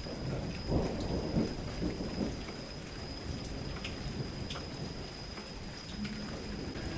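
Steady rain with scattered individual drops ticking, and a low rumble of thunder in the first couple of seconds. A faint steady high tone runs underneath.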